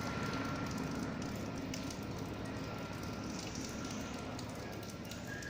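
Helicopter flying overhead: fast, steady rotor chop with a thin high turbine whine above it, slowly growing fainter.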